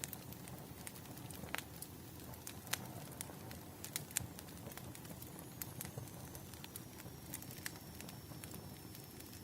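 Wood fire crackling, with sharp pops and snaps at irregular intervals over a low steady rumble.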